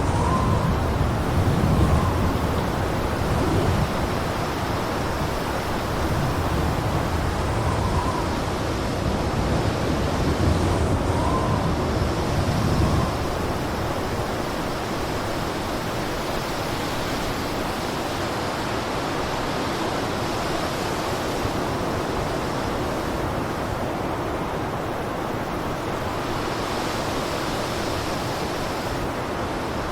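Blizzard wind blowing, gusting heavily with a deep rumble and a few short faint whistles for about the first half, then settling into a steadier, even rush.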